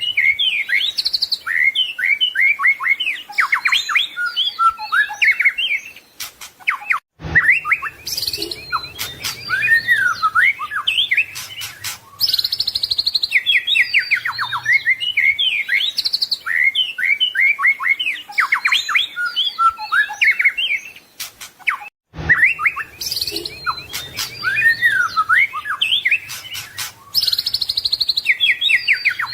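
White-rumped shama (murai batu) singing a fast, continuous, varied song packed with mimicked phrases (full isian). The song is rich in rising and falling whistles and rapid trills, and breaks off briefly twice, about 7 and 22 seconds in.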